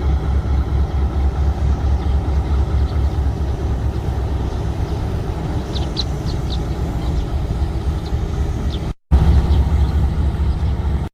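Steady low rumble of a train engine running at a station, with a few faint high chirps about six seconds in. The sound cuts out completely for a moment near nine seconds, then resumes.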